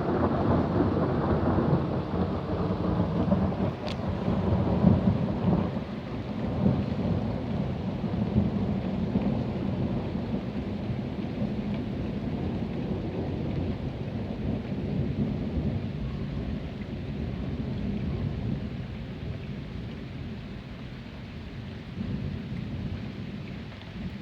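Rolling thunder rumbling, loudest over the first six seconds and then slowly dying away, with rain falling throughout.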